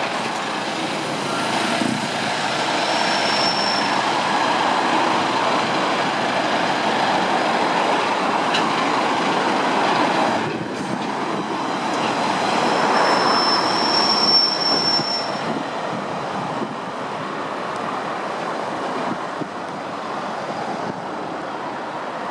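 Pacer diesel railbus units passing on the line, a continuous rumble of engines and wheels with a few sharp clicks. A high wheel squeal rings out twice, briefly a few seconds in and for a couple of seconds past the middle.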